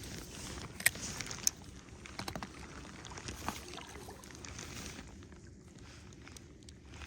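Wind rumbling on the microphone aboard a small fishing boat, with a few sharp knocks and clicks; the two loudest come about a second and a second and a half in.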